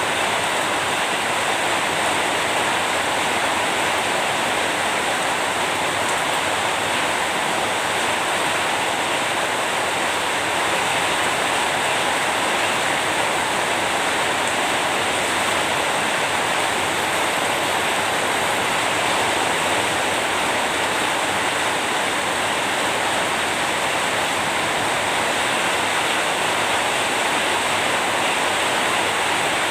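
Steady rain falling, an even hiss with no breaks or single loud events.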